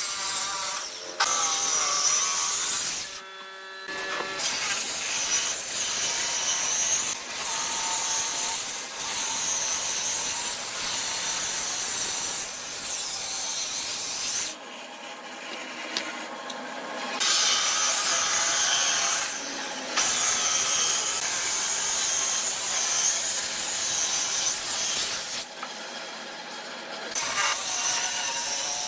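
Power tool working wood, running steadily in several stretches that start and stop abruptly.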